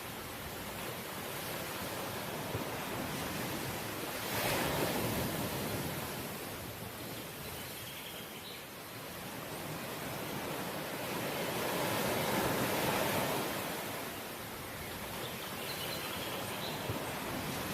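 Sea waves on a shore, a steady rushing wash that swells and ebbs slowly, with surges about four seconds in and again around twelve seconds.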